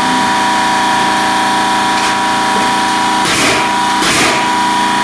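A steady machine drone with a pitched hum runs throughout. About three and four seconds in, a pneumatic nailer fires twice, each shot a short sharp burst, fastening gypsum board to the ceiling.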